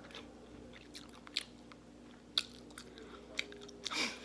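A person chewing a mouthful of fried chicken sandwich close to the microphone, with scattered short wet clicks and crunches.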